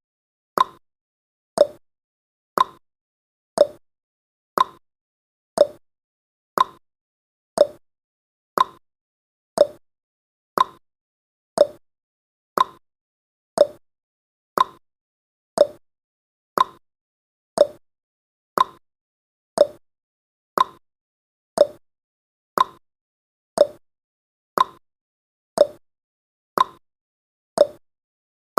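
Countdown timer's clock-tick sound effect: one short tick every second, alternating between a higher tick and a lower tock.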